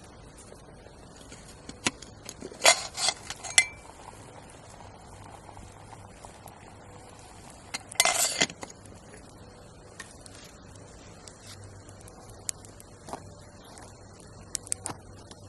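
Metal camp cookware clinking: a few sharp clinks about three seconds in, a louder, longer clatter about eight seconds in, and light ticks near the end.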